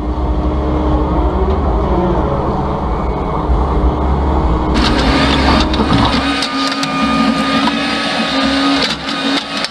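Volvo ECR145EL excavator running under load, with a steady low engine rumble and hydraulic hum. About halfway through, the sound turns abruptly brighter, with hiss and clatter, and the low rumble drops away.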